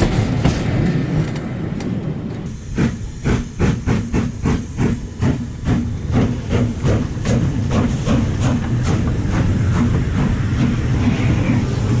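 Steam locomotive working hard with a low rumble. From about two and a half seconds in, its exhaust beats come clearly at roughly three a second, then merge back into the steady rumble near the end.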